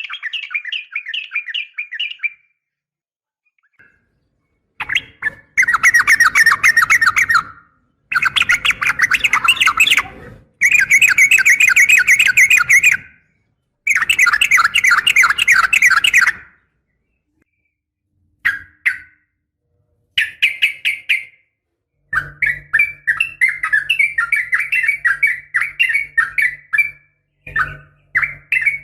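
Yellow-vented bulbul calling: loud phrases of rapid chattering, bubbling notes, each lasting two to three seconds with short pauses between, which the uploader presents as a female calling to a male. A low steady hum sits under the calls in the last third.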